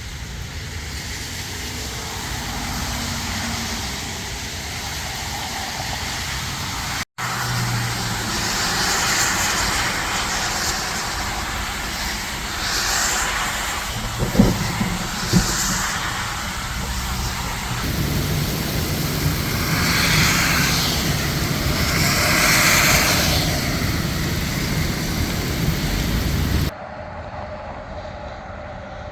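Road traffic passing with a steady hiss, over several clips; in the later part, heavy rain with tyres spraying water off the wet road. Two short, sharp sounds stand out about halfway through.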